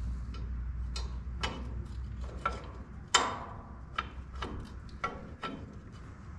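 Metal parts clinking and clicking as they are handled and fitted during reassembly: about eight irregular sharp strikes, the loudest about three seconds in, over a low steady hum.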